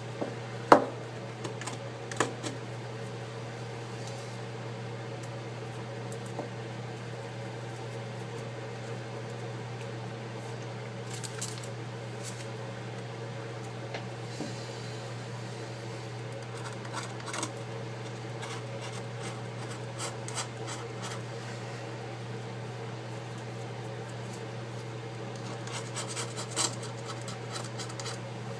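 Small repair tools scratching and clicking lightly on an iPad 4's opened frame, a few scattered ticks and scrapes with the sharpest click about a second in, over a steady low electrical hum.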